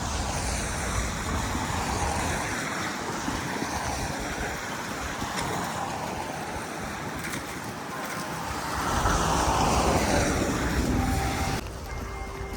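Street traffic: cars driving past on a wet, slushy road with a steady tyre hiss, one vehicle passing close about nine seconds in. The sound drops off abruptly near the end.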